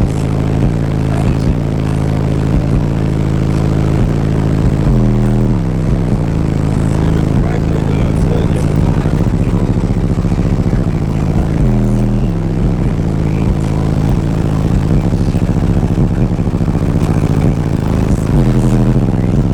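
Loud, deep subwoofer bass from a competition car audio system, with low notes that change constantly and a sweep that comes back about every seven seconds.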